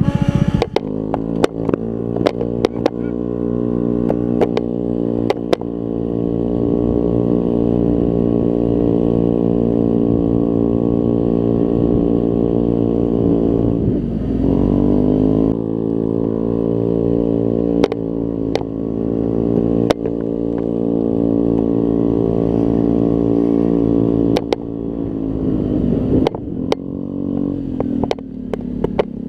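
Scooter engine running under way at steady revs. About halfway through the pitch drops and climbs back as the throttle is eased and reopened, and it wavers again near the end. Scattered sharp clicks sound over it.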